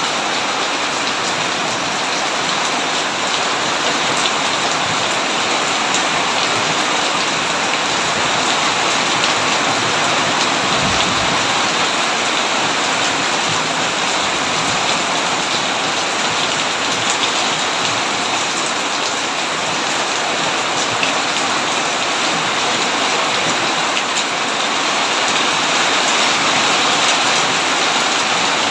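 Heavy rain falling steadily on a tin roof, a dense, even hiss of drops.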